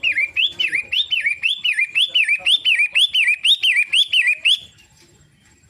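Pentet matahari (shrike) calling: a rapid run of identical loud whistled notes, each rising then dropping, about four a second, stopping about four and a half seconds in.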